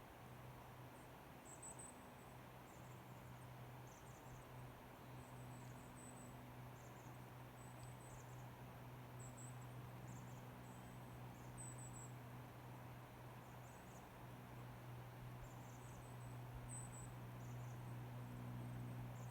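Faint, very high-pitched short chirps of small forest birds, repeated irregularly about once a second, over a low steady hum.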